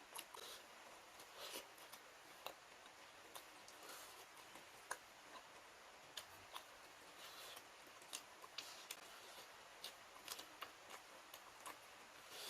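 Close-miked eating sounds: soft, irregular mouth clicks and wet chewing smacks, several a second, over a faint hiss.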